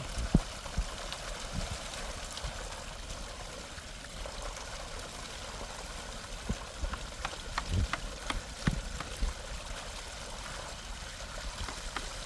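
Water running or pouring steadily, with a few light clicks and knocks about seven to nine seconds in.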